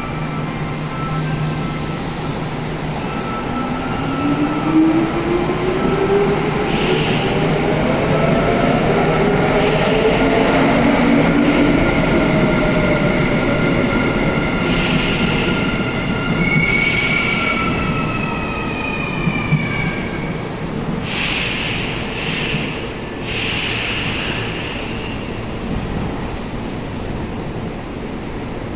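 Kintetsu 8600 series and 1252 series electric train pulling away, its motor whine rising in pitch over the first several seconds as it gathers speed. The wheels squeal in repeated high screeches from about seven seconds in until the mid-twenties.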